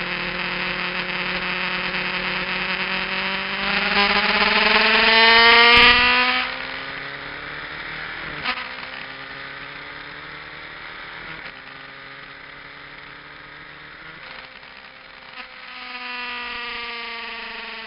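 Kawasaki GPZ900R inline-four on an aftermarket exhaust, heard from on the bike. Its revs climb hard for about six seconds, then drop suddenly as the throttle closes. The engine winds down slowly under lower load, picks up again briefly, and falls off near the end.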